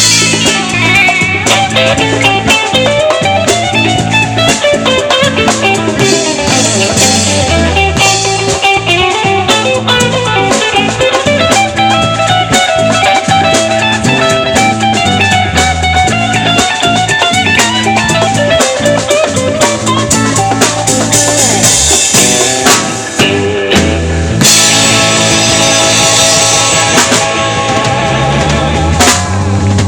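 Live rock band playing an instrumental passage: electric guitar and bass over a drum kit, loud and steady with a short break about two-thirds of the way through.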